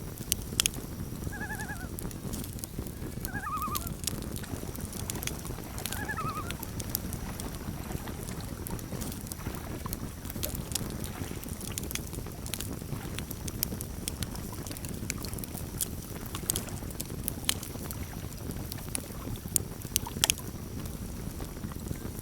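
Campfire crackling, with sharp pops scattered throughout over a steady low rumble of flames. In the first several seconds there are three short, wavering calls from a common loon.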